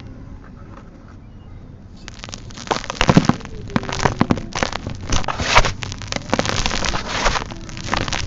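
Dry, dusty sand-cement chunks crumbling, a dense run of gritty crackles and crunches with sharp clicks. It is quiet for about the first two seconds, then the crunching starts and keeps going with several louder crunches.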